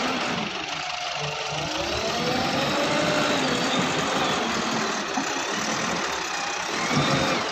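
Diesel engine of a JCB backhoe loader running and revving up and down as it works, its pitch rising and falling.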